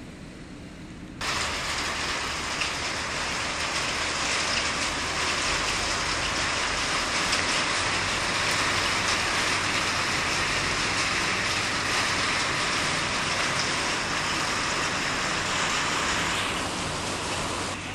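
Heavy rain falling in a steady hiss during a severe storm, starting suddenly about a second in and dropping near the end.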